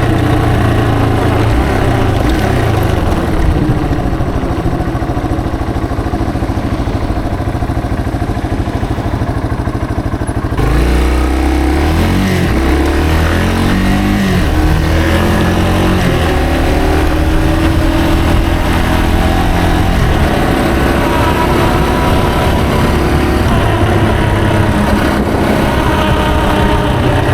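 Yamaha TW225's air-cooled single-cylinder four-stroke engine running under way, heard from the rider's position. Its pitch rises and falls with the throttle, and about ten seconds in the sound suddenly turns fuller, followed by rising and falling pitch sweeps as the bike picks up speed.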